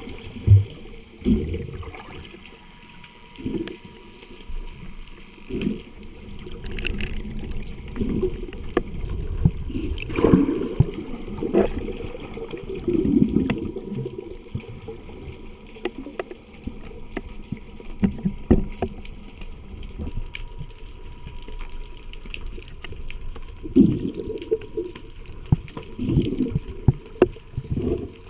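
Water sloshing and gurgling around a camera at and just under the surface while snorkeling, in irregular surges with a few sharp clicks scattered through.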